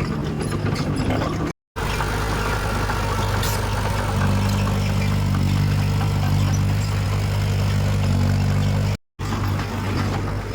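Heavy diesel engine of earthmoving equipment running steadily at constant revs. The sound cuts to silence twice for a moment, about a second and a half in and near the end.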